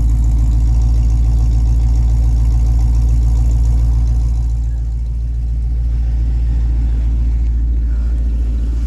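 1996 Ford F-150's 351 Windsor V8, breathing through shorty headers and a 3-inch Magnaflow exhaust, idling with a deep, steady exhaust rumble shortly after a cold start at 1 °F. The idle dips slightly about four and a half seconds in, then settles back.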